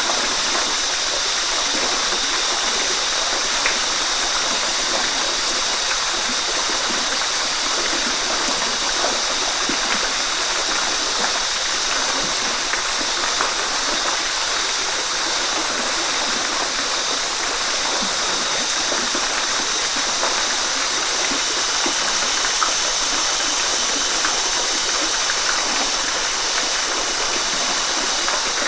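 Waterfall: a steady, even rush of falling water, hissy and bright with little deep rumble.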